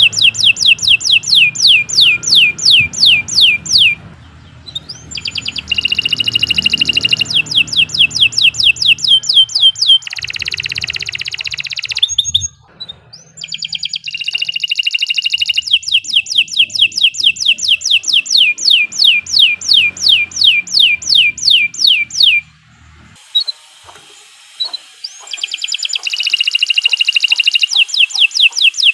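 Domestic canary singing a long song: rapid trills of repeated downward-sweeping notes, several a second, with a dense buzzy rolling phrase in the middle and a few short pauses.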